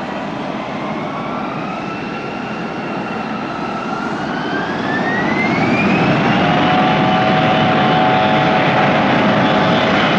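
Jet engines of a Fuji Dream Airlines Embraer regional jet spooling up for takeoff. A whine rises in pitch about four to six seconds in, and the engine noise grows louder, then holds steady at takeoff power.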